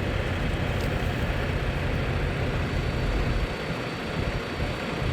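Steady low rumble of an idling motor vehicle engine, easing slightly a few seconds in, with one faint click about a second in.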